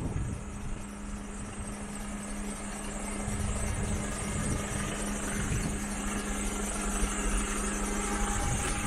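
Mercedes Actros 2545 truck's diesel engine running steadily at idle, with a steady hum that drops out shortly before the end.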